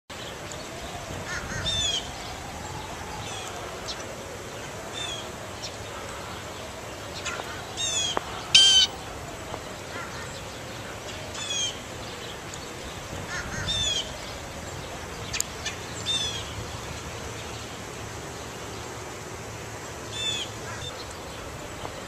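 A bird calling again and again in short, sharp notes every second or two, the loudest about eight and a half seconds in.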